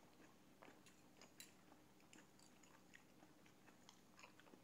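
Near silence with faint chewing of a mouthful of pancake and a few soft scattered clicks.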